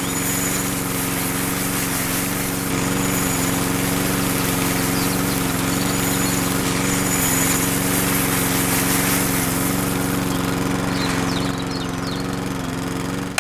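Small electric motor of a miniature DIY model machine running steadily: a hum made of several steady tones over a constant rattling hiss.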